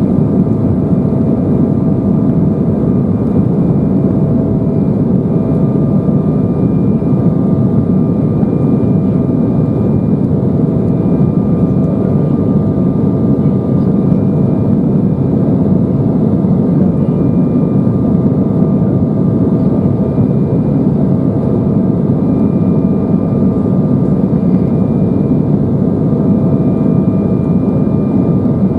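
Steady cabin drone of an Embraer 175 in its climb, the GE CF34 turbofans and rushing airflow heard from a passenger seat, with a faint steady whine above it.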